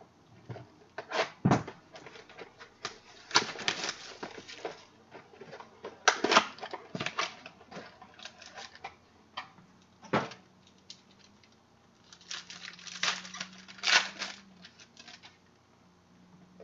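Irregular rustling and clicking of trading cards and their plastic packaging being handled and sorted, in short bursts with quiet gaps between.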